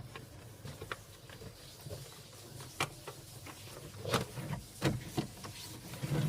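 A hand pulled across the freshly cleaned body of a fridge, making a series of short squeaks spread out over several seconds. The squeak is the sign that the surface is fully clean.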